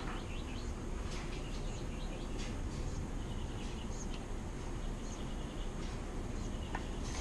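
Birds chirping now and then over a steady outdoor background noise.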